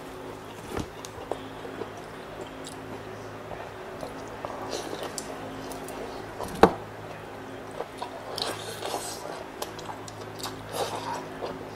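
Close-miked chewing of tender pork knuckle meat (crispy pata), with wet mouth sounds, many small clicks and fingers pulling meat from the bone. One sharp, louder click about two-thirds of the way through. A steady low hum runs underneath.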